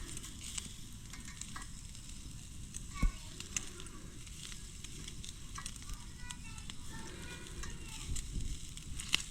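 Meat sizzling on a grill over a wood fire, with scattered crackles and pops, and one sharp knock about three seconds in.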